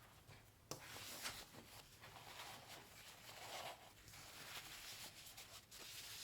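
Faint rustling and scraping of packing materials being handled, starting with a sharp click just under a second in and running on unevenly.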